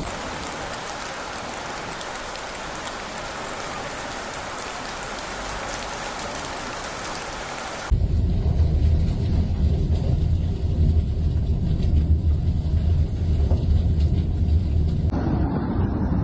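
Steady hiss of heavy rain. About eight seconds in it cuts abruptly to a louder, deep, continuous rumble.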